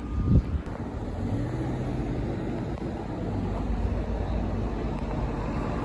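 A car engine runs with a steady low hum. A short thump comes about a third of a second in.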